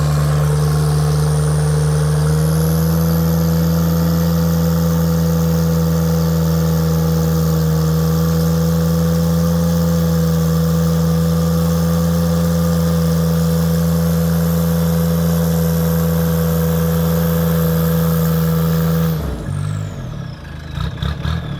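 1967 Chevrolet C10 pickup's engine held at a steady high speed, with a high whine above it. Both step up slightly about two seconds in, then the engine drops off sharply about nineteen seconds in and the whine falls away.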